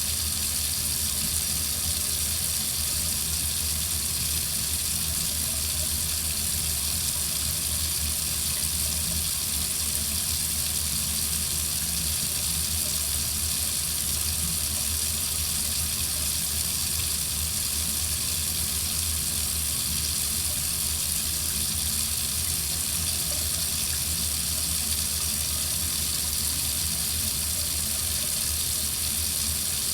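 Water faucet running steadily into a sink, an even, unbroken rush of water.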